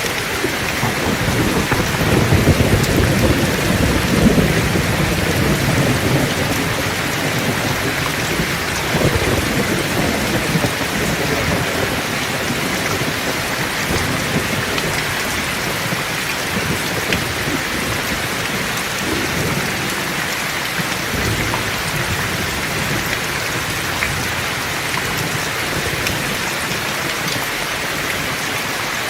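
Heavy rain falling steadily, with thunder rolling in low and long about a second in and fading over several seconds, then fainter rumbles later on.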